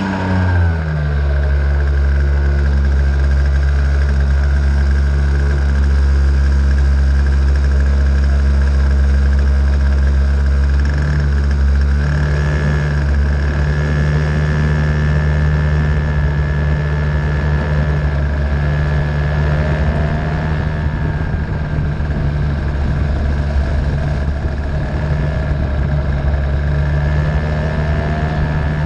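An engine running at a steady speed, its note holding level with a small step about twelve seconds in.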